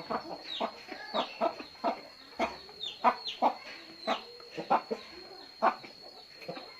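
Chickens clucking in a string of short, separate calls, over a faint steady high tone.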